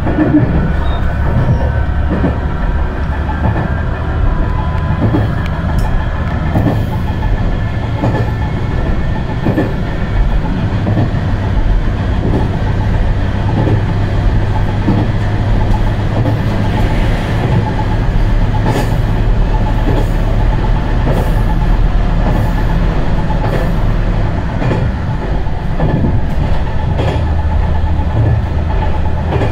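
Diesel railcar heard from inside, running at speed: a steady low engine and running drone with irregular clicks and knocks from the wheels on the track.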